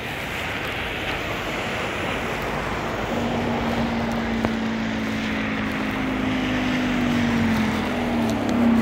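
Traffic on a wet street: a steady hiss of tyres on wet road that swells as a vehicle draws near. From about three seconds in, a low steady hum joins it and dips slightly in pitch near the end.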